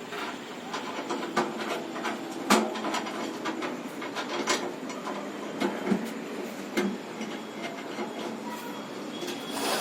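Irregular knocks, clicks and scraping from hands and tools working on washing-machine parts during a repair.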